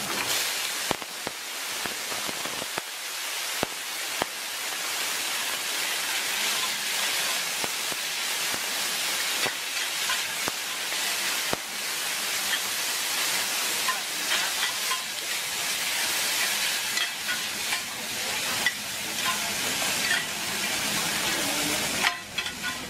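Oysters and bean sprouts frying on a wide, flat steel pan, with a steady sizzle. Metal spatulas scrape, tap and clink against the pan as the food is stirred and turned.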